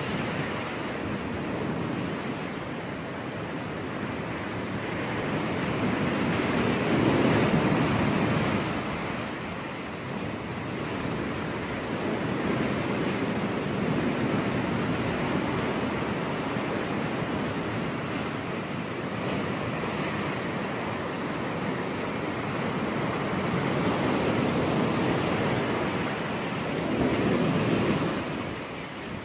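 Ocean surf: waves washing onto a beach in a continuous roar, swelling louder as breakers come in, most strongly about seven seconds in and again near the end.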